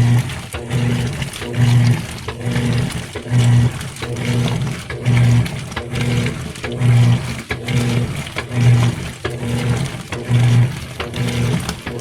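GE Spacemaker laundry center washer agitating on its wash stage: the drive motor hums in strokes a little more than once a second, with water sloshing around the drum.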